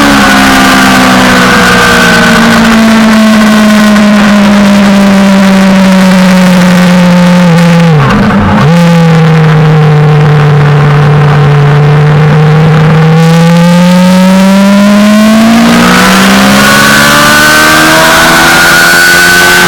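Suzuki GSX-R600 inline-four engine heard onboard on track, with wind rushing past: the engine pitch sinks slowly for several seconds, a quick gear change comes about eight seconds in, then it climbs steadily under acceleration, shifts again near the end and climbs once more.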